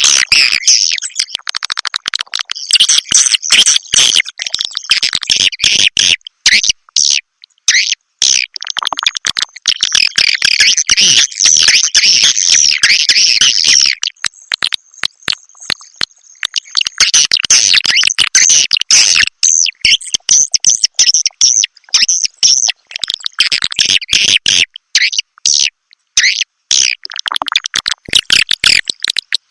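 Swiftlet call recording: dense, rapid high twittering and chirping of swiftlets, with a few short breaks. It is the kind of lure sound played in swiftlet houses to draw the birds in to roost and nest.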